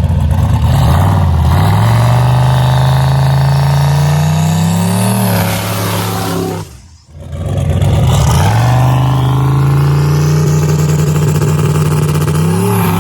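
Turbocharged 5.3 LS V8 in an El Camino accelerating hard twice. Its note rises steadily on each pull along with a high rising whine, and cuts out briefly about seven seconds in, between the pulls.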